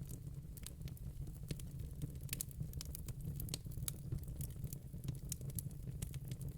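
Wood fire in a fire pit crackling, with irregular sharp pops and snaps over a steady low rumble.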